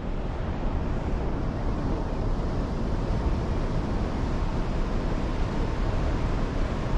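Wind buffeting the microphone out on a cruise ship's open deck: a steady, deep, flickering rush with no distinct events.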